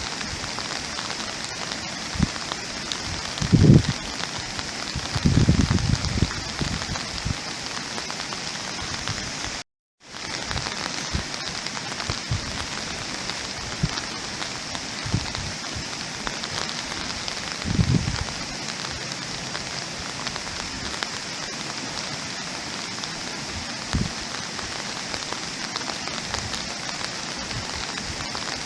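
Steady rain falling, with scattered low thuds of heavier drops or gusts, a few of them louder than the rest. About a third of the way through the sound cuts out to silence for a split second, then the rain resumes.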